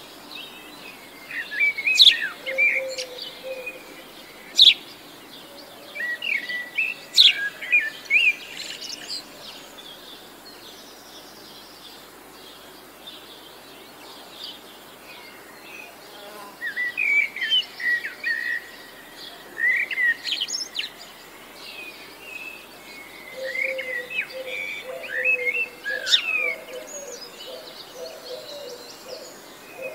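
Wild birds chirping and singing in quick bursts of short, sweeping notes, busiest at the start and again in the second half, with a quieter stretch in the middle.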